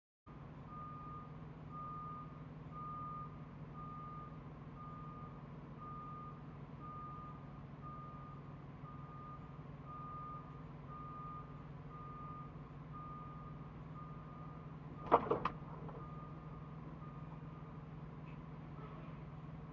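A vehicle's reversing alarm beeps about once a second over a steady engine drone, stopping a little before the end. About fifteen seconds in comes a sharp clatter of three quick knocks, the loudest sound.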